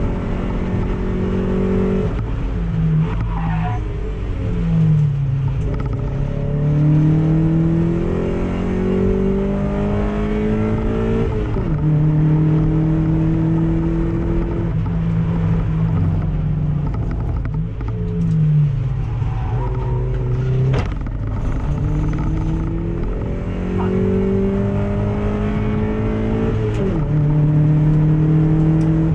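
Car engine heard from inside the cabin while lapping a circuit. It climbs in pitch under acceleration and drops sharply at each gear change or lift, several times over.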